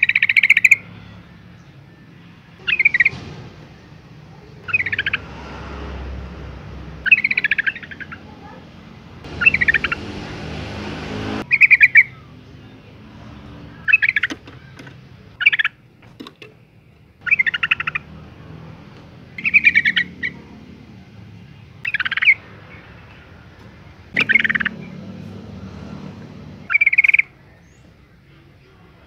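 A female yellow-vented bulbul giving short, bubbling calls, one about every two seconds, in a lure recording meant to call in males.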